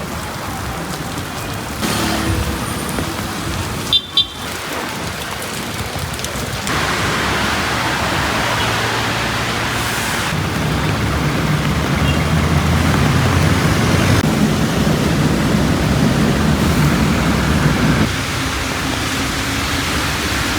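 Street traffic in heavy rain: a steady hiss of rain with vehicle engines running, louder from about seven seconds in as a vehicle runs close by for about ten seconds. A short double beep, like a horn toot, about four seconds in.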